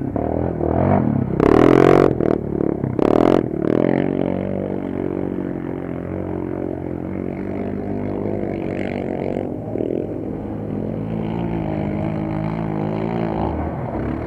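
Quad-bike (ATV) engines running and revving, with two loud rushing bursts of noise about one and a half and three seconds in.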